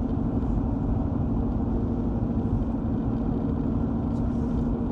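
Steady car-cabin drone of engine and road noise while driving: a constant low rumble with a steady hum.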